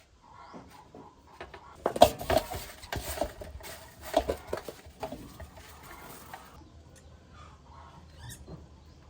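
Mice scrabbling inside a snake trap: a busy run of quick clicks and rustles from about two seconds in, fading out after about six seconds.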